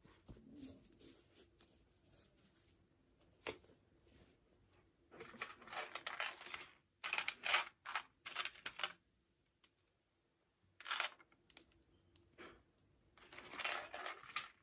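Miniature toy packaging being handled and torn open: irregular bursts of crinkling and tearing with a sharp click a few seconds in.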